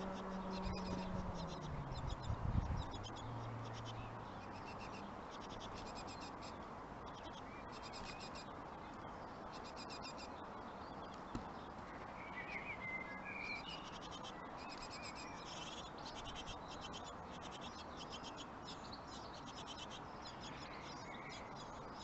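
Small birds chirping: rapid high twittering comes and goes, with a short stepped call about twelve seconds in. Over the first few seconds a low hum drops in pitch and fades out.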